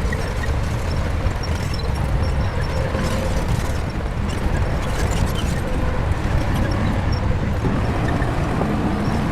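Shantui bulldozer's diesel engine running steadily, a low even drone with scattered light clicks.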